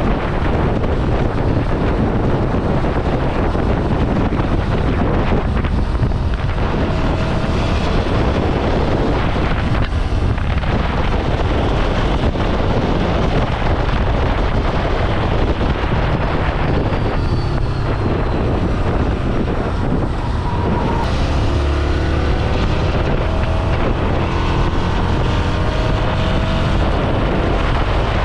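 Ducati Scrambler Sixty2's air-cooled L-twin engine running under way, with heavy wind rush on the microphone. In the last several seconds the engine note rises in pitch as the bike pulls harder.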